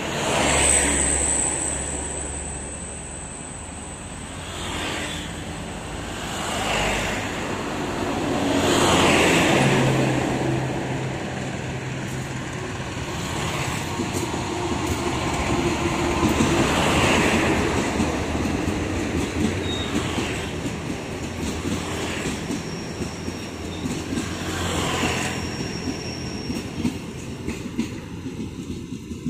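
Train rolling over a railway level crossing, its wheels clattering in swells that rise and fall every couple of seconds as the cars pass.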